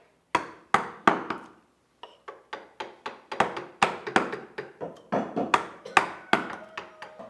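Wood carving by hand: a carving tool struck into wood in a series of sharp knocks. Three knocks come in the first second, then a pause of about a second, then a steady run of about two to three knocks a second.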